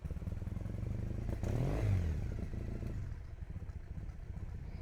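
Motorcycle engine running, with a louder swell about one and a half seconds in as its pitch rises and falls, then settling back to a steady rumble.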